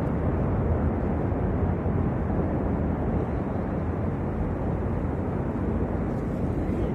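Snow avalanche rumbling: a steady, deep, unbroken noise with no distinct knocks or breaks.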